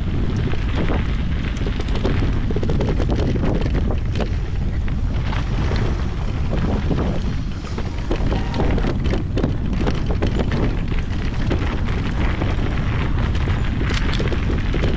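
Wind rushing over the microphone of an e-bike riding a mountain trail at speed, with steady crunching, clattering tyre and frame noise from the rough ground.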